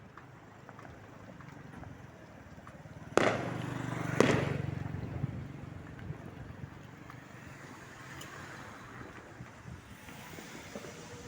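Two loud fireworks bursts about a second apart, a few seconds in, each followed by a rumbling echo that dies away over a steady background hum.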